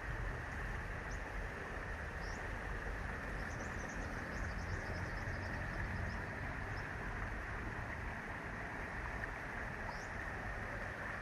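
Fast-flowing river rushing steadily, with short high bird chirps now and then.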